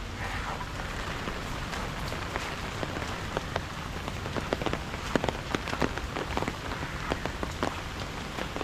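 Steady rain falling, with frequent sharp taps of single drops striking close by, more of them after the first couple of seconds.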